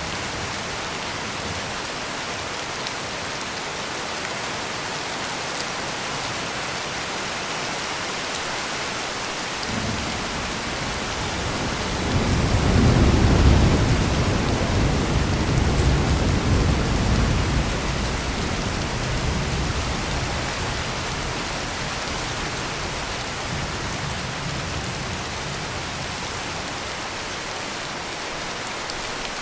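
Steady heavy rain, with a roll of thunder that builds about ten seconds in, peaks a few seconds later and rumbles away over the following several seconds.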